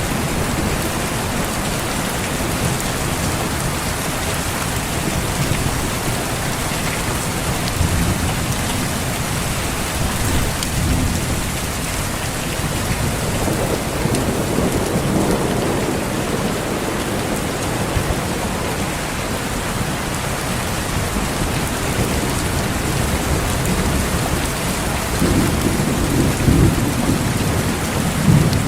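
Steady heavy rain falling on foliage, with low rolls of thunder rumbling through it, the strongest swelling about 14 seconds in and again near the end.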